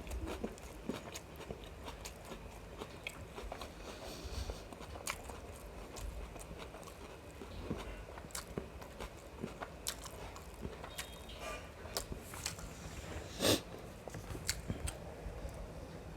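Close-up eating sounds: a person chewing and biting into biryani and mutton gravy with wet mouth smacks and irregular small clicks, one louder smack about thirteen seconds in.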